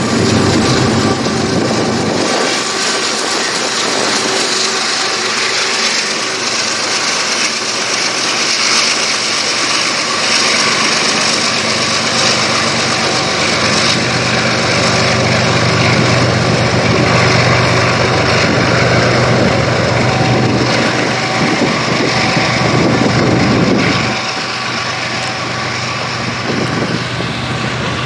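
GE ES40DC diesel-electric locomotive's GEVO V12 diesel engine working hard, a loud steady rumble with a low droning note. It drops back somewhat near the end.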